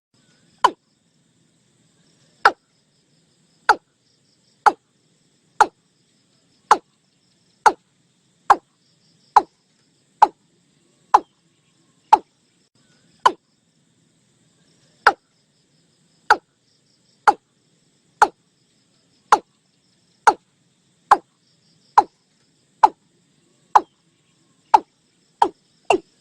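Watercock calling: a long series of short, hollow notes at about one a second, with a brief pause about halfway through and the notes coming a little quicker near the end.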